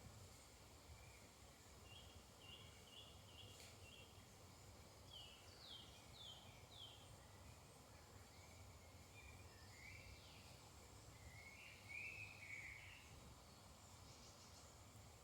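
Faint woodland birdsong: a run of short repeated notes, then four quick downward-slurred notes, then a brief warbling phrase near the end, over a low steady rumble.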